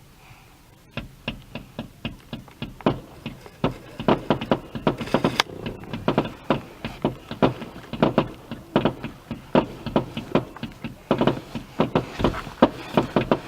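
Fireworks going off in a rapid run of sharp bangs and crackles, several a second. The run starts about a second in, after near quiet.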